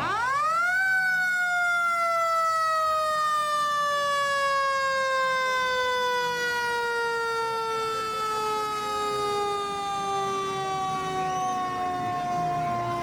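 Fire truck siren wailing: one quick rise in pitch at the start, then a long, slow, steady fall.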